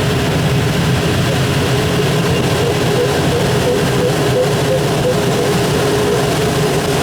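Steady rush of airflow inside a Schleicher ASK-21 glider's cockpit, with an electronic variometer sounding short repeated beeps over it.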